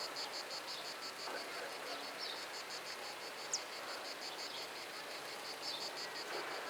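Insects chirping in a steady rapid pulse, about seven pulses a second, high in pitch. A short sharp high chirp cuts in about halfway through.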